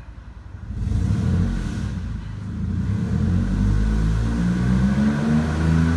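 Toyota Sienna's 3.3-litre V6 revved with the throttle, rising about a second in, easing briefly, then climbing again and held up. Under throttle it has an exhaust leak.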